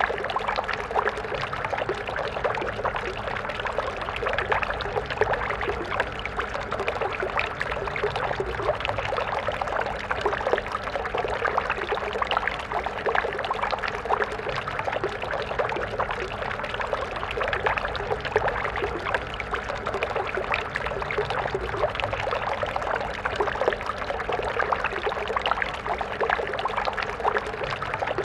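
Stream water flowing and splashing steadily over rocks, a dense even rush with fine splashy detail.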